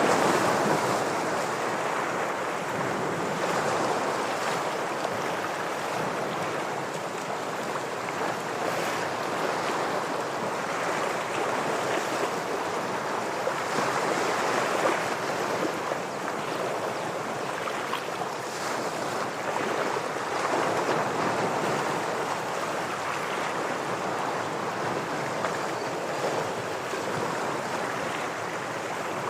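Sea waves washing and breaking against shoreline rocks, a continuous surf that swells and ebbs every few seconds.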